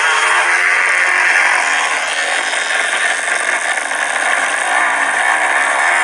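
Motocross bike engines revving on a dirt track, the pitch rising and falling again and again as the riders work the throttle.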